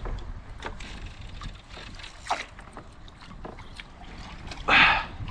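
Kayak handling noise: scattered small knocks and rustles of gear against the hull, with light water sounds, as a hooked fish is worked free of the anchor line. A louder, rougher burst comes near the end.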